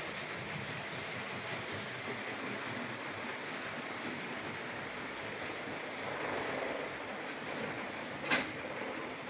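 H0-scale model train running on the layout track, a steady rolling rattle of wheels and motor that swells a little about six seconds in. A single sharp click comes about eight seconds in.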